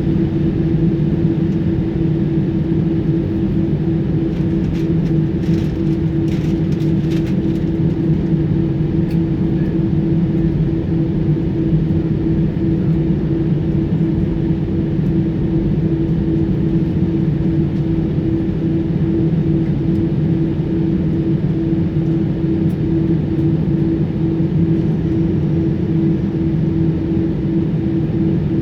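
Steady cabin hum of an Airbus A320 on the ground after landing: engine and air-conditioning noise with a constant low drone, with a few faint clicks about five to seven seconds in.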